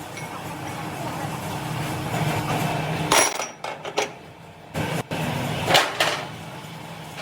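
Workshop machinery running with a steady hum, broken by about five sharp metal clanks and knocks; the loudest come about three seconds in and near six seconds.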